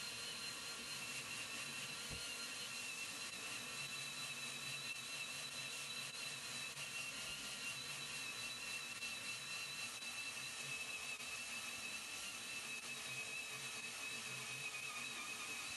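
A power tool running steadily with a high whine.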